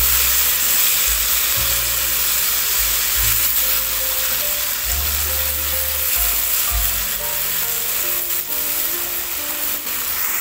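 Long beans, carrots and sliced chicken sausage sizzling in a wok as they are stirred with a spatula, just after a little water has been poured in. Background music with held notes and a bass line plays over the sizzle.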